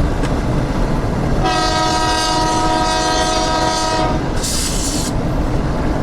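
EMD SW9 switcher locomotive's air horn sounding one long blast of about two and a half seconds, over a steady low rumble, followed by a short hiss of air.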